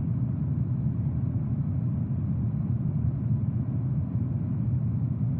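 Steady low drone of jet engines in flight, as heard from aboard during aerial refueling.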